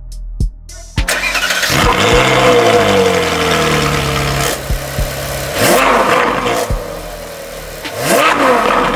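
Ferrari 458's naturally aspirated 4.5-litre V8 starting about a second in and flaring high on the start before settling. It then revs twice in short blips, rising and falling.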